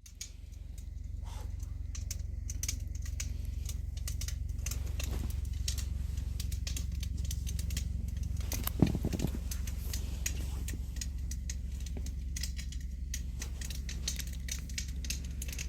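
Wood campfire crackling, with many irregular sharp pops and snaps over a steady low rumble. One louder short knock about nine seconds in.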